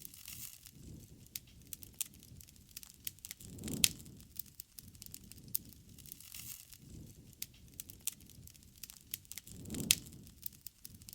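Wood campfire crackling, with irregular sharp snaps and pops. Two louder pops, about four seconds in and near the end, each come with a brief low rush.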